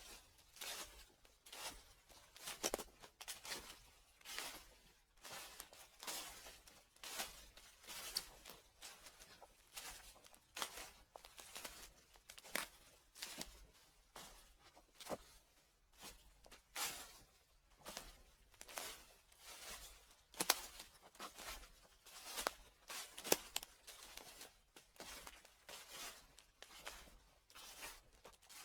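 Footsteps on dry fallen leaves: slow, steady steps, each one a crisp crunch and crackle, about one a second.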